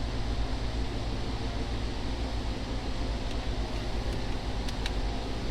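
Steady low mechanical hum under an even rush of air, with two faint clicks near the end.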